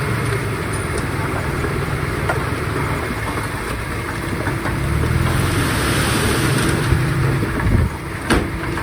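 Komatsu D51PX bulldozer's diesel engine running steadily, working harder and louder from about five to seven and a half seconds in, with one sharp metallic clank near the end.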